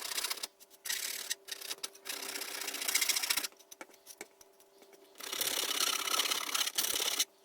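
Hand file rasping along the edges of 3D-printed plastic pieces in fast, scratchy strokes, stopping for about two seconds midway before starting again. A faint steady hum runs underneath.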